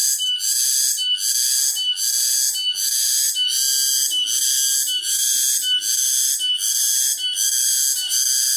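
Cicada chorus singing in a steady, high-pitched, pulsing rhythm of about two pulses a second.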